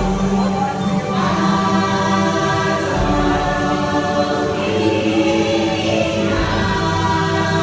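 Choir singing held, layered chords over music, the harmony shifting every few seconds.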